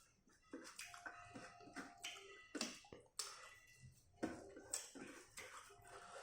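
A person eating rice with pork gravy close to the microphone: soft chewing with irregular wet mouth clicks and smacks, faint overall.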